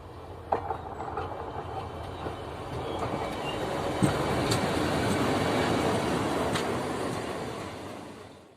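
Railway locomotive running past on the track during a trial run: the rumble of the engine and the wheels on the rails grows louder, holds for a few seconds, then fades away near the end. A few sharp clicks sound from the wheels on the rail joints.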